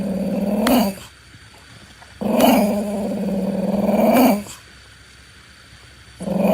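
A dog making long, drawn-out growling vocalisations, three times: a short one at the start, a longer one of about two seconds in the middle, and another starting near the end.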